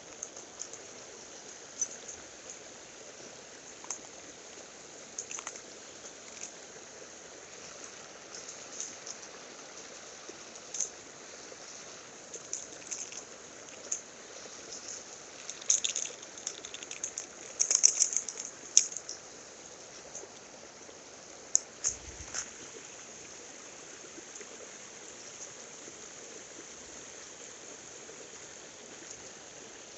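Mountain stream water running steadily, with scattered short sharp ticks over it, most of them bunched together a little past the middle, and one brief low thump a few seconds later.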